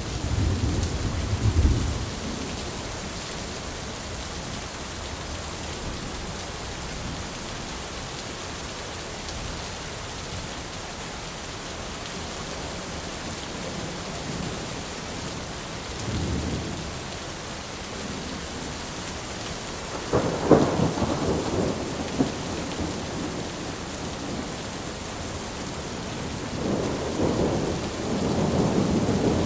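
Thunderstorm: steady rain hissing throughout, with thunder over it. A low rumble comes in the first two seconds and a fainter roll about sixteen seconds in. A sharp, loud clap at about twenty seconds is followed by rumbling, and another long roll builds near the end.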